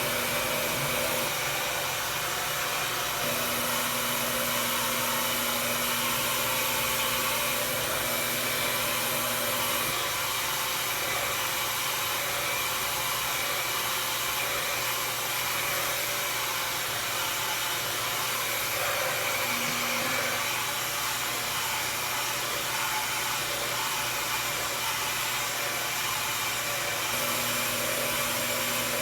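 Revair reverse-air hair dryer running steadily: a continuous rush of suction airflow as it pulls hair into its wand and dries it straight. A low hum drops in and out several times.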